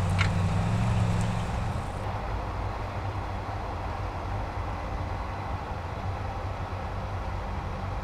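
Chevrolet Colorado pickup's 2.7-litre turbo engine running as the truck drives, with a deeper low rumble for the first couple of seconds, then a steady drone.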